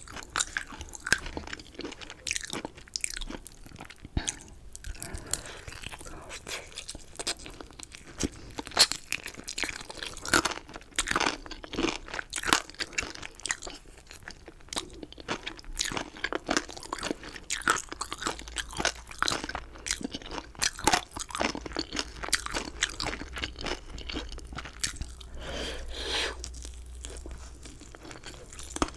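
Close-miked chewing of chicken, with a steady run of irregular crunches and wet crackles as the food is bitten and ground between the teeth.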